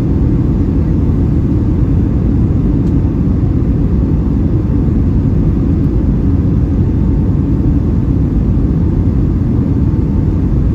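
Steady low cabin roar of a Boeing 757-300 in flight: jet engine and airflow noise heard from inside the passenger cabin, with a faint thin whine above it.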